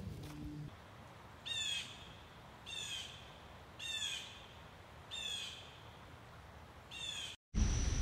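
A bird calling: five short, high calls, each a quick run of falling notes, a little over a second apart.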